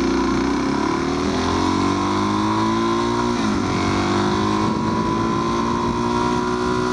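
Motorcycle engine accelerating, its pitch climbing steadily, dropping for a gear change about three and a half seconds in, then climbing again.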